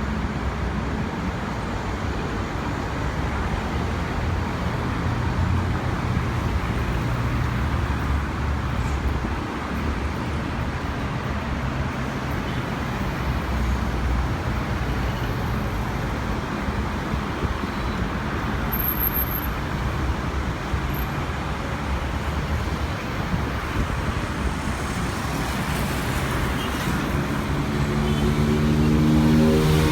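Steady engine and traffic roar, with a road vehicle's engine accelerating in a rising pitch near the end.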